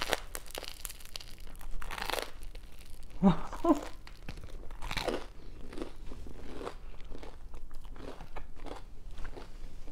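Close-miked biting and chewing of a toaster-oven-toasted grilled cheese sandwich filled with macaroni and cheese: the crisp bread crust crunches with each bite, then wetter chewing follows. A couple of short hums come from the eater about three seconds in.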